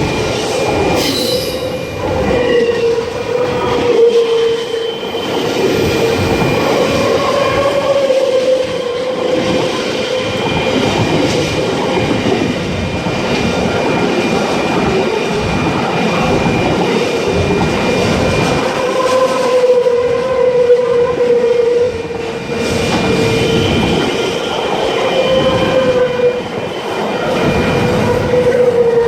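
Train running past at speed: a loud, continuous rail rumble with rapid wheel clatter and a wavering whine throughout.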